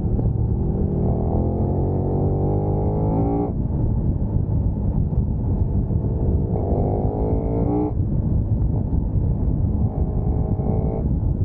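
Motorcycle engine heard from onboard under hard acceleration: the note climbs in pitch three times and drops abruptly at each gear change, over a constant low rumble of engine and wind.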